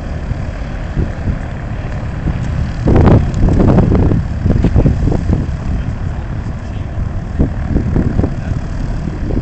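Boeing 747 jet engines rumbling loudly, with a louder surge about three seconds in.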